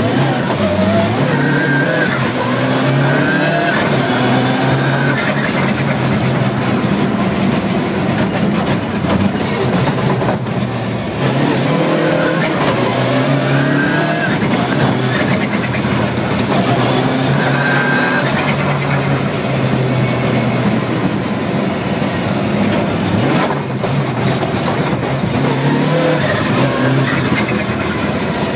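Skoda Fabia rally car's engine revving hard through the gears, heard from inside the cabin, its pitch climbing and dropping back at each gear change, with a brief lift off the throttle about ten seconds in and again near the end. Road and wind noise run underneath.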